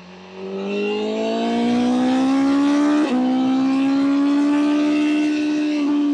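BMW M1000R's inline-four engine accelerating hard, its pitch climbing steadily. About three seconds in there is a quick upshift with a brief dip in pitch, after which it pulls on at high revs.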